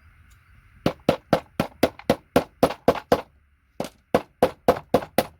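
Hammer tapping a paint scraper to knock an IDE connector off a circuit board: quick, sharp strikes about four a second, about ten in a row, a short break, then about seven more.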